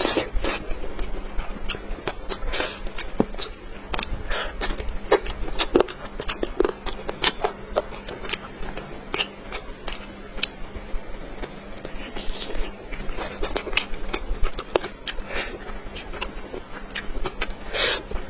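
Close-miked eating of cola-braised chicken wings: irregular wet smacks, clicks and chewing with no steady rhythm.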